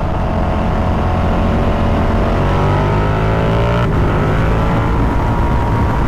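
Ducati Multistrada V4 Pikes Peak's V4 engine pulling up through the revs on the road, with a gear change about four seconds in after which the engine note drops and climbs again, over steady wind and road rush.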